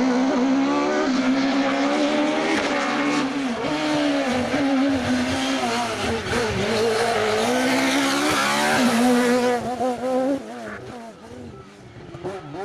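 Rally kit car engine running at high revs under hard acceleration, its pitch held high with brief dips at lifts or gear changes, then fading away near the end as the car goes off.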